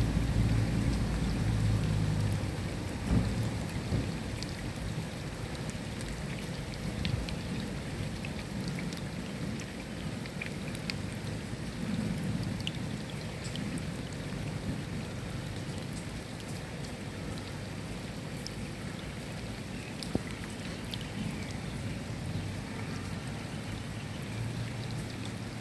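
Steady rain falling, with scattered individual drop ticks. A low rumble of distant thunder in the first few seconds dies away, and a fainter one returns near the end.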